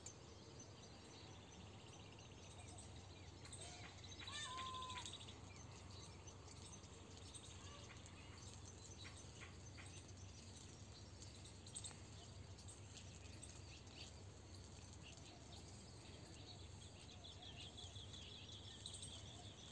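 Near silence outdoors, with faint, scattered bird chirps and one short call about four seconds in.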